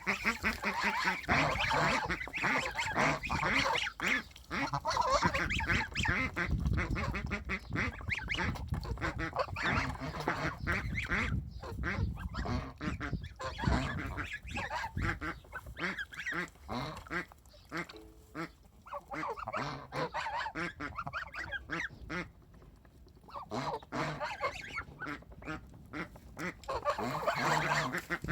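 A flock of ducks calling over one another in a continuous, busy chorus that thins out briefly about two-thirds of the way through, then picks up again near the end.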